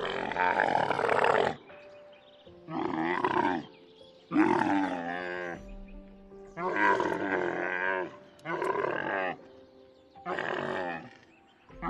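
Dromedary camel calling: six loud calls of about a second each with short gaps between them, their pitch wavering. Soft music with sustained tones plays underneath.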